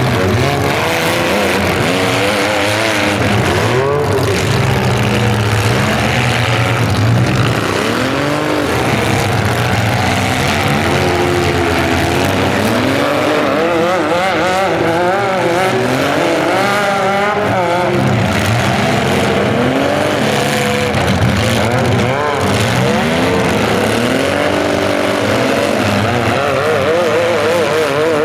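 Several compact demolition-derby cars' engines revving hard at once, their pitch rising and falling in overlapping sweeps over and over.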